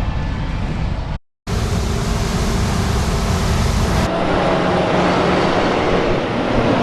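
Heavy harvest machinery running, in short clips cut together: steady engine and mechanical noise, broken by a brief drop to silence about a second in and changing abruptly about four seconds in.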